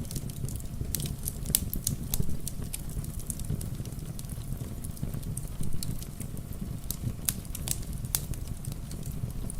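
Fireplace crackling with irregular sharp pops, over a steady low rumble and the patter of rain.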